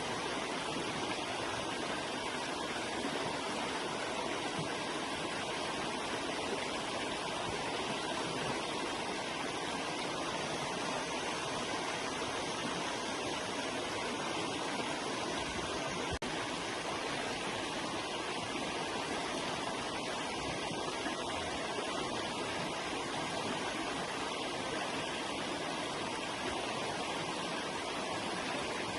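River water flowing steadily, an even, continuous rush with no changes, apart from a brief dropout about sixteen seconds in.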